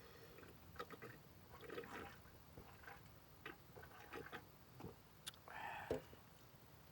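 Soft, wet eating sounds from a bowl of mushroom stew: small clicks and squishes of chewing, with one short, louder wet sound about five and a half seconds in.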